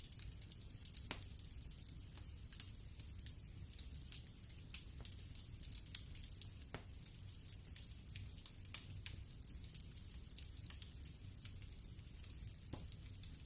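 Wood fire crackling in a fireplace: scattered sharp pops and snaps at irregular intervals over a low rumble, with one louder pop near the middle.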